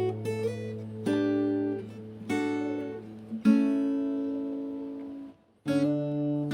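Background music: an acoustic guitar playing plucked, ringing chords, which stop briefly about five seconds in and then start again.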